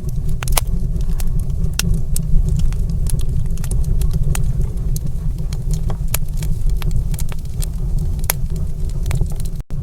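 Wood fire crackling in a fireplace: a steady low rumble of the burning fire with irregular sharp pops and snaps throughout, briefly cutting out near the end.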